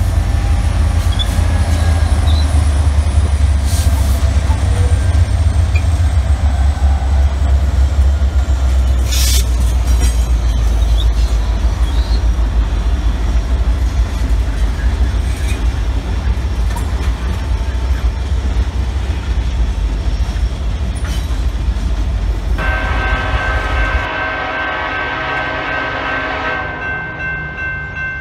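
Diesel-powered train passing with a heavy, steady rumble and scattered clicks from the wheels on the rails. Near the end a locomotive air horn sounds a long blast of several steady tones together, with a short break.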